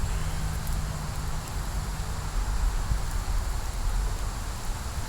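Outdoor ambience: a steady low rumble of wind on the microphone with a rustling hiss, and a faint low hum for the first couple of seconds.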